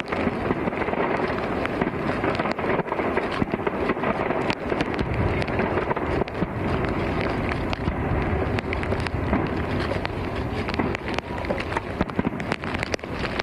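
New Year fireworks going off: a dense run of sharp pops and crackles over a steady low rumble.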